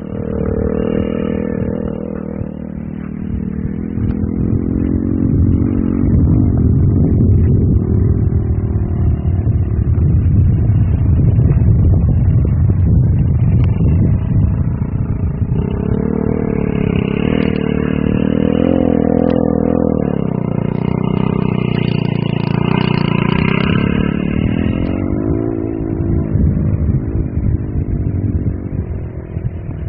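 Off-road vehicle engine running under load and revving, its pitch rising and falling as it is driven over the track's ramps; the revving is loudest and busiest in the second half.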